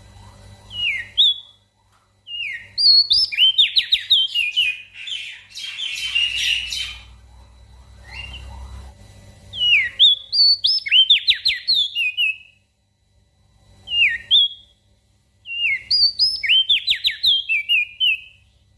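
Crested darkeye (opior jambul) singing: loud phrases of quick, descending whistled notes, repeated four times with gaps of a few seconds, and a short harsh noisy burst about six seconds in.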